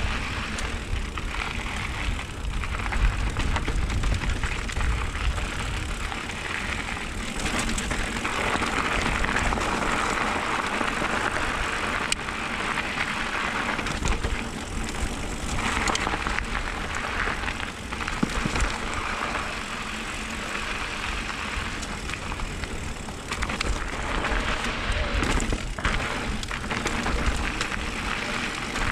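Mountain bike rolling down a dirt trail: tyres hissing over loose dirt and gravel, with wind rumbling on the camera microphone and now and then a short click or rattle from the bike. The hiss swells and eases as the speed changes.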